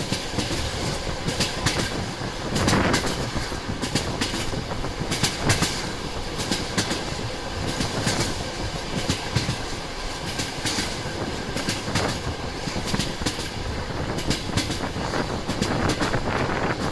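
Railway carriage wheels clattering over rail joints: a steady rolling noise broken by repeated sharp clicks in the clickety-clack rhythm of a train running at speed.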